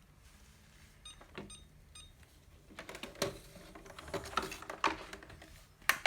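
Plastic parts of an ILife robot vacuum being handled: a quiet start with a few faint ticks, then a run of sharp clicks and knocks from about halfway through.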